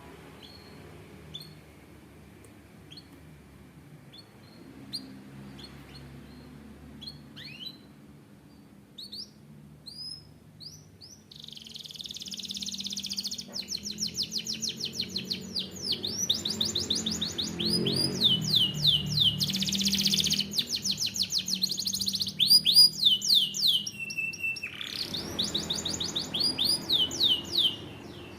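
Canary singing: scattered short chirps at first, then from about eleven seconds in a loud, rapid trilled song of fast repeated high notes, with a brief held note shortly before the end.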